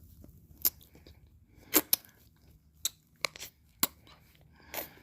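Close-miked mouth sounds of eating ice cream: a scattered series of sharp lip smacks and tongue clicks, about eight in the few seconds, with quiet between them.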